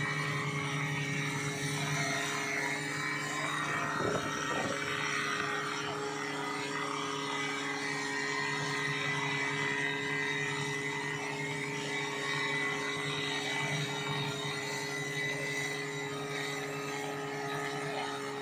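Portable fire-pump engine running at a steady speed: an even, unchanging engine drone.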